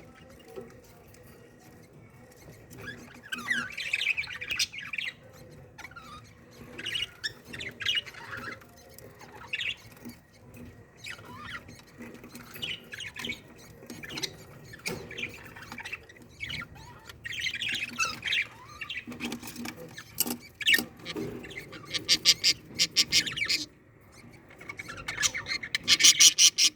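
Budgerigars chirping and squawking in short, scattered calls, with a quick run of rapidly repeated calls near the end.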